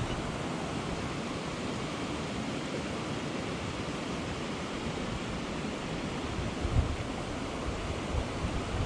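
Small mountain creek flowing steadily, a constant rush of water, with a brief low buffet of wind on the microphone near the end.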